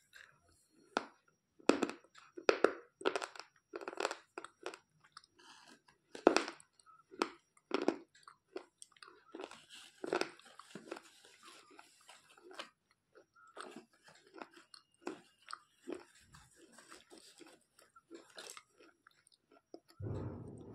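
Slate pencils bitten and chewed close to the microphone: irregular sharp, dry crunches, loudest and most frequent in the first several seconds, then thinning to softer chewing. A low thump near the end.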